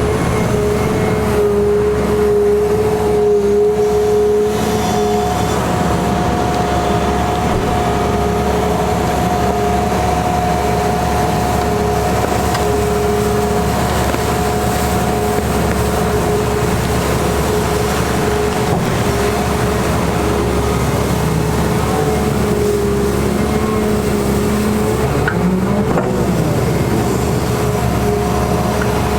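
Caterpillar 336E excavator's diesel engine running steadily while it works, with two steady whining tones over a dense low rumble.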